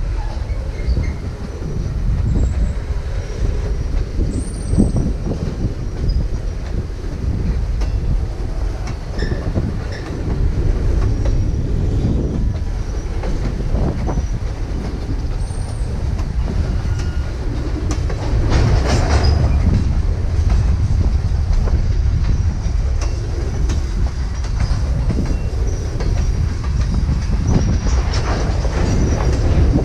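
Kansas City Southern ballast train's cars rolling past with a steady low rumble and clickety-clack of wheels over the rail joints, with faint wheel squeal. A louder, sharper burst comes about 19 seconds in.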